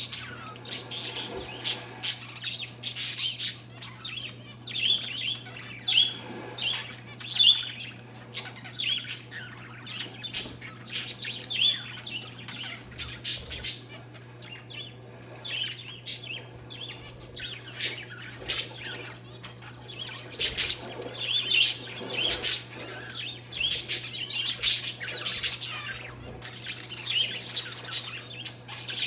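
Pet parakeets and zebra finches chirping and calling continuously: many short, high chirps and squawks in quick succession. A steady low hum runs beneath them.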